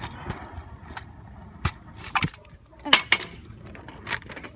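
Scooter rolling over pavement: a low, rough rumble from the wheels, broken by sharp clacks, about six of them at uneven spacing, the loudest about three seconds in.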